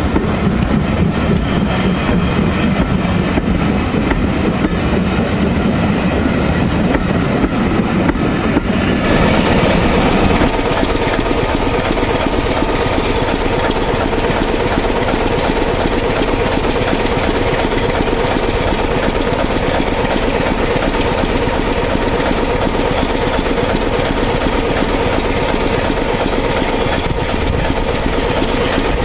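A train running, a loud steady rumble. About nine seconds in the sound changes: a low hum drops away and steady higher tones come in.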